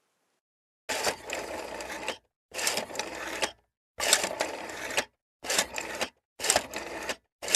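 A mechanical clattering that starts about a second in and comes in about six runs of half a second to a second each, broken by short pauses.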